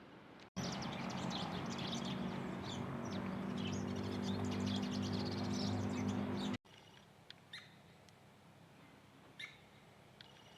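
A crowd of small birds chirping rapidly and busily over a low steady hum; it cuts in about half a second in and cuts off abruptly about six seconds later, leaving a few faint scattered chirps.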